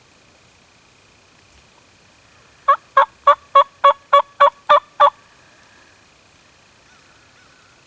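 A run of about ten loud, evenly spaced turkey yelps, about four a second, lasting roughly two and a half seconds.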